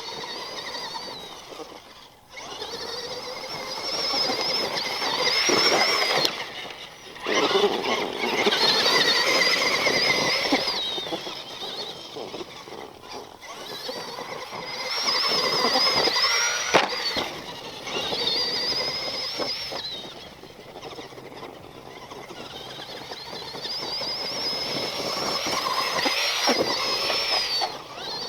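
Axial SMT10 Grave Digger RC monster truck being driven in about five throttle runs, its electric motor and all-metal gear transmission whining high and rising in pitch on each run, with rough noise from the tyres on the ground underneath.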